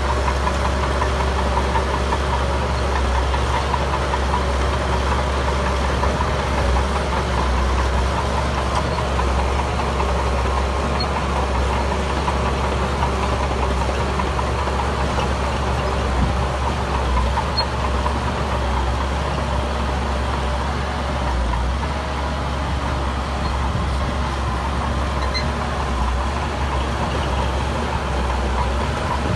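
Diesel engine of heavy earthmoving machinery running steadily, with a strong low rumble and no marked revving.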